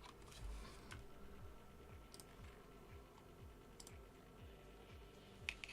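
A few faint, sharp clicks, roughly two seconds apart, over near-silent room tone.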